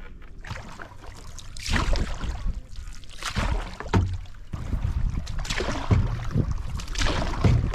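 Canoe paddle strokes splashing in a shallow creek: a run of splashy swishes with low thuds, about one every second or two, starting about two seconds in.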